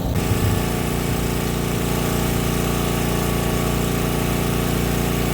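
An engine running steadily at an even speed, with a steady hiss over it.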